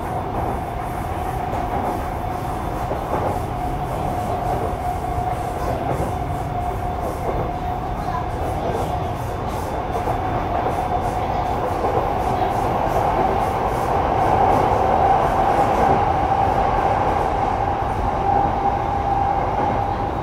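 Sotetsu 12000 series electric train running between stations, heard from inside a motor car: a steady rumble of wheels on the rails with faint rail-joint clicks. A continuous whine runs over it, rising slightly in pitch as the sound grows a little louder in the second half.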